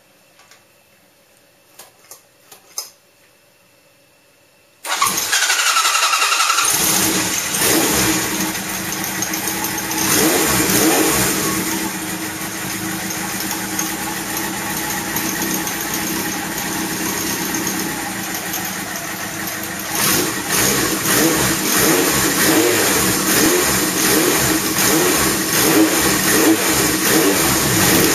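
A Kawasaki Z2 (Z750) air-cooled inline-four motorcycle engine being started: a few faint clicks, then about five seconds in it is cranked and catches, and it runs on with blips of the throttle near ten seconds and again from twenty seconds on.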